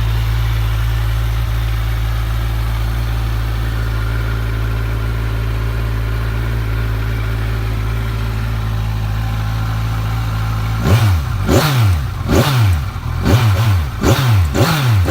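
2014 Kawasaki Z1000SX's inline four-cylinder engine idling steadily, then revved in a quick series of throttle blips, each rising and falling back, during the last four seconds.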